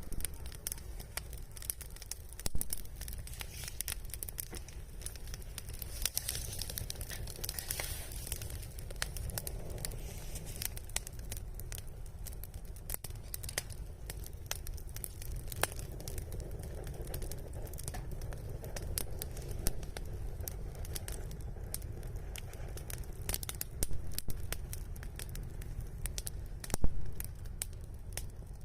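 Wood fire (bonfire) crackling, with sharp irregular snaps and pops over a low steady rumble; a louder pop comes near the end.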